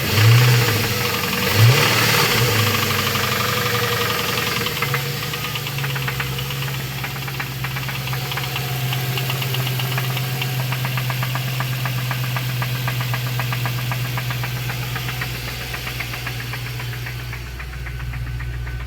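2002 Lincoln LS engine revved briefly twice near the start, then running with a fast, steady knocking rattle. The rattle returns whenever the throttle is opened; the owner is unsure whether it is a rod knock or lifter noise.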